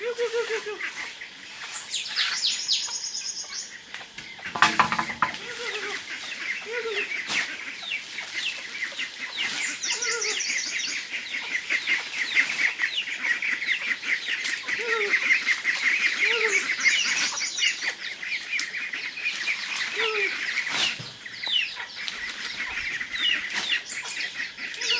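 A flock of ducks calling, with dense, rapid overlapping calls throughout and repeated short falling calls. A single louder knock comes about four and a half seconds in.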